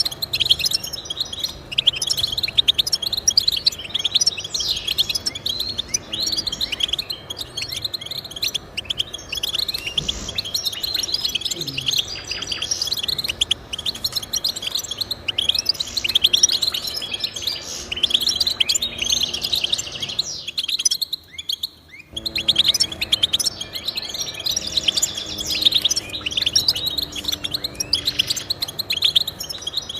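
Finch song: a dense run of rapid twittering chirps and trills. It drops out suddenly for about a second and a half about two-thirds of the way through, then resumes.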